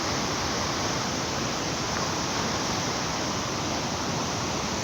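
Steady rushing of a river in flood, with no break or change.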